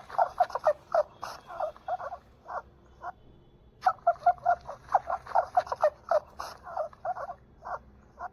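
Rabbit squeaking: rapid, short, high squeaks several times a second, in two runs with a brief pause about three seconds in.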